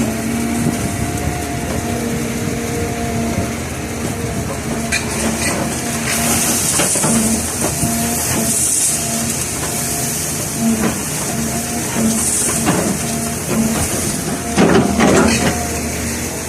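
Heavy earth-moving machinery working a sand screening job: a diesel engine runs steadily under load, with several bursts of hissing rush and a cluster of knocks and clatter near the end.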